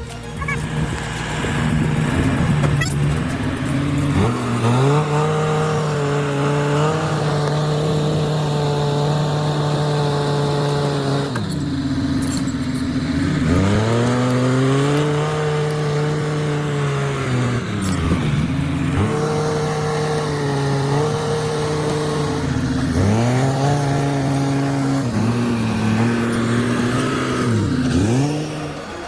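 Timberjack skidder's diesel engine working hard, revving up and dropping back again and again, holding a steady note for several seconds between each change.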